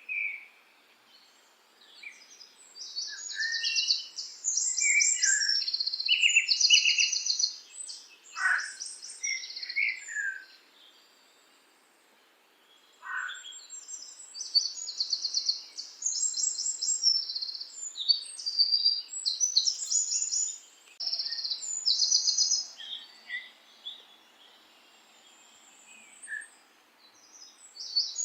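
Songbirds singing: bouts of high, rapid trilled phrases and a few falling whistled notes, broken by pauses of a few seconds.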